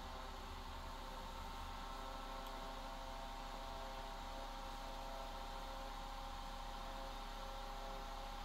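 Fitzgerald Star-Rite 7-inch table fan from the 1920s running steadily at its single speed, its brushed universal motor giving a steady hum with the characteristic brushed-motor sound. Fairly quiet and smooth, its bearings freshly oiled.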